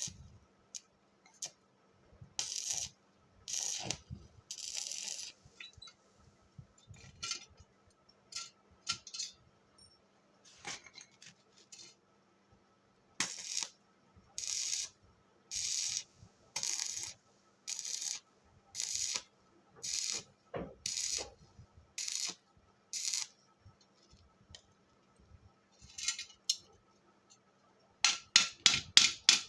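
Short scraping strokes on metal, one after another at about one a second, over a faint steady hum.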